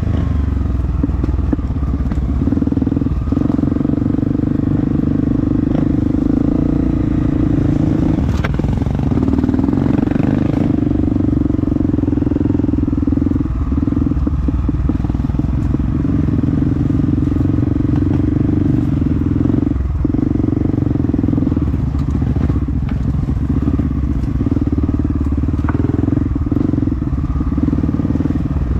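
Dirt bike engine running hard on a trail ride, holding a steady note with brief drops in revs every few seconds as the throttle is eased and reopened.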